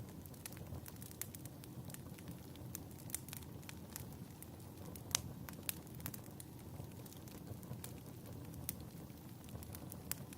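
Wood fire crackling in a fireplace: irregular sharp pops and snaps over a low steady rumble, with one louder pop about five seconds in.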